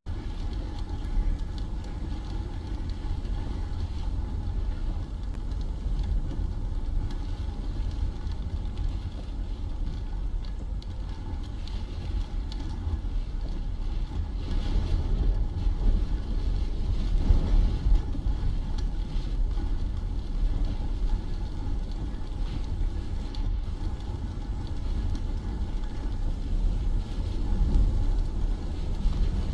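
A car driving, heard from inside: a steady low road and engine rumble that swells and eases slightly, with no sharp events.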